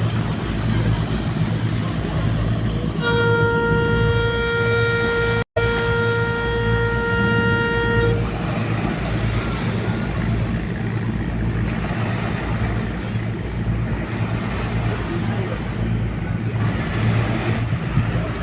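A ship's horn sounds one long blast of about five seconds, starting about three seconds in, over the steady low drone of ship engines.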